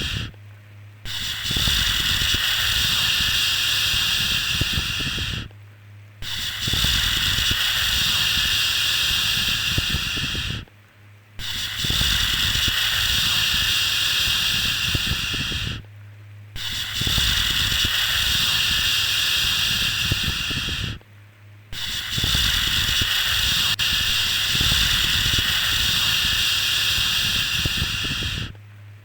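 A long, steady 'shhh' shushing sound for soothing a baby. It repeats about every five seconds, each shush lasting four to five seconds with a short pause between.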